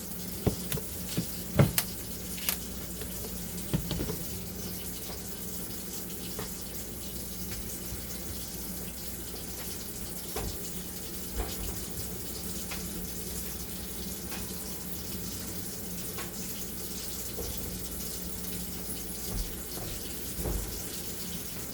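Water running steadily from a kitchen faucet into the sink, with sharp clatters of things being handled, mostly in the first few seconds.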